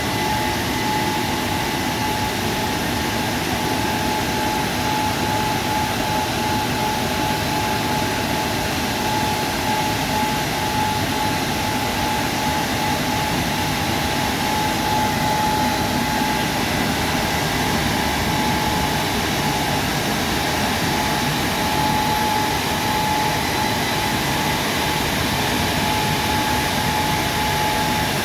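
WashTec SoftCare Pro Classic rollover car wash running steadily: a loud, even rushing noise with a steady whine over it.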